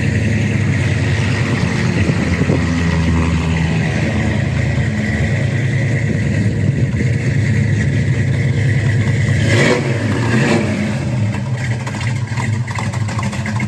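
A 1966 Ford Mustang GT's 289 V8 idling through a freshly installed exhaust system shortly after a cold start, with a brief rise and fall in engine speed about ten seconds in.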